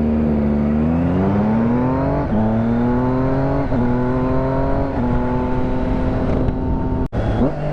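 Triumph Daytona 675 inline three-cylinder engine pulling hard under acceleration, its pitch climbing, with quick clutchless upshifts about 2, 3½ and 5 seconds in. Each shift is a brief dip in the note before it pulls again. After the last shift it holds a steady note, with wind rushing over the helmet microphone, and the sound cuts out for an instant near the end.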